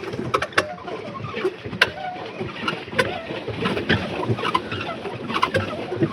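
Small recreational boat moving on a lake: irregular clicks and knocks from the boat over a busy background.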